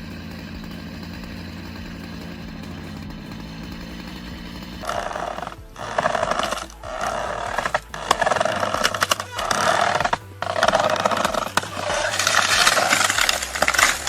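Stihl MS 881 two-stroke chainsaw cutting timber at full throttle, coming in about five seconds in as a run of loud bursts broken by short drops. Background music runs underneath.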